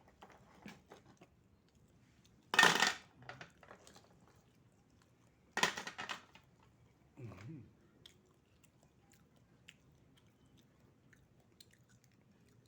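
Oysters being eaten close to the microphone: two loud slurps about three seconds apart, with quieter chewing and small clicks around them.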